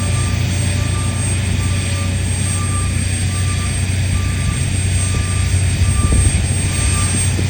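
Diesel engines of heavy Komatsu mining machinery running with a deep steady hum, while a backup alarm beeps in an even rhythm, roughly once a second.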